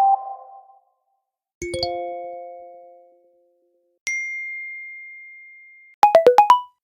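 iPhone alert tones previewed one after another. A chime of several notes at once rings out and fades, then a single high ding fades for about two seconds before it is cut off, then a quick run of six short plinking notes comes near the end.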